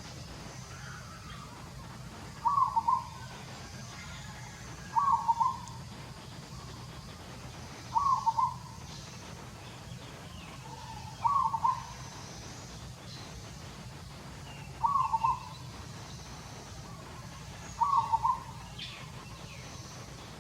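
A bird calls a short, two-part note near 1 kHz six times, about every three seconds, over a steady low hum.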